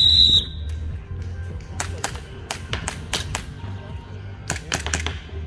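A short, loud whistle blast, then airsoft guns firing single shots: about ten sharp cracks in two clusters. Background music plays throughout.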